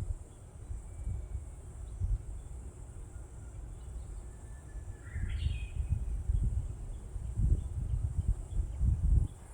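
Outdoor ambience: a steady high insect drone over irregular low rumbling, with one short rising call about five seconds in.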